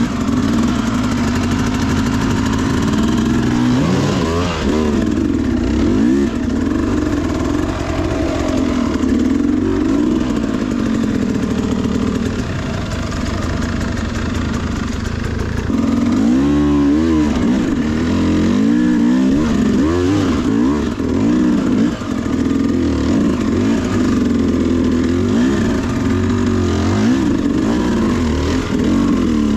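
Sherco SE300 two-stroke enduro motorcycle engine running under load on a steep climb, with the throttle blipped up and down; sharp revs about four seconds in and again around sixteen to seventeen seconds.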